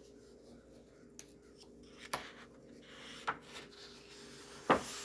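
Thick coloring-book pages being handled and turned, paper rubbing and rustling, with a few short taps; the loudest comes near the end.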